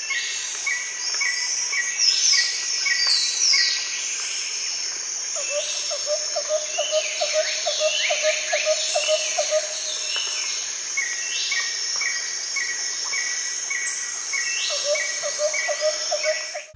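Outdoor nature ambience: a steady high insect drone with several birds calling over it, including a repeated short chirp about twice a second, falling whistled sweeps, and twice a quick run of low repeated notes.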